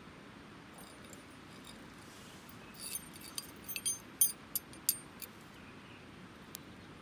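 Steel fire striker scraped against flint (Japanese hiuchi-ishi), about eight sharp, high clinks in quick succession over two seconds as sparks are struck, then one faint clink.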